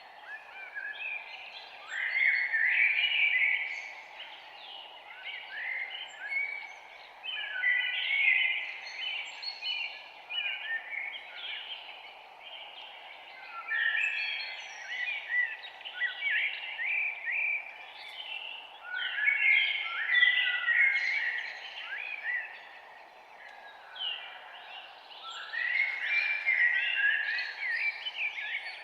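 Songbirds singing in a forest, bursts of quick chirping notes that come again every few seconds over a steady background hiss.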